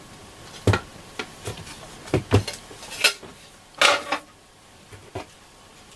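The cover of an AOR AR-2002 receiver being lifted off: a run of sharp knocks and clicks as the case is handled, with a longer scrape about four seconds in as it slides free.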